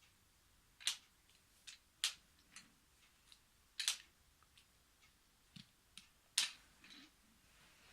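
Wooden toy train cars knocking and clicking on wooden train track: a handful of irregular sharp clicks, the loudest about six seconds in.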